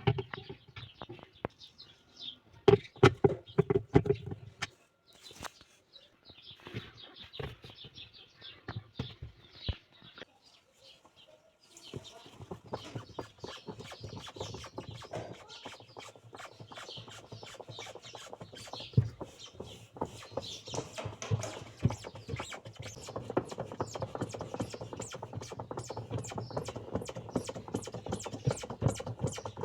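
Hand tools knocking, clicking and scraping on a washing machine's plastic pulsator as it is worked loose: scattered knocks at first, then a steady run of rapid scraping and clicking from about twelve seconds in.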